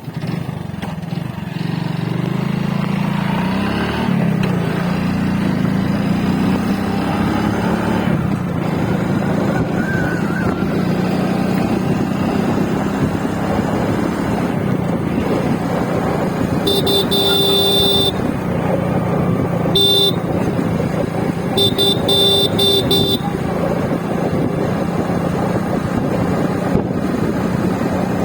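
Small vehicle engine running steadily, its pitch rising in the first few seconds as it picks up speed. Past the middle, a horn honks: one long honk, one short one, then a quick run of short beeps.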